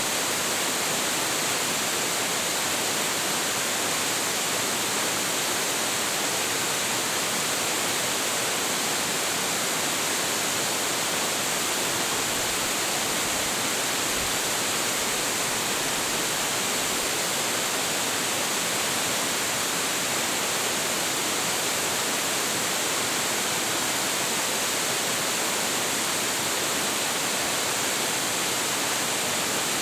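Hiji Falls, a 25.7 m waterfall with heavy flow, pouring steadily: a constant, even rush of falling water that is strongest in the hiss-like upper range.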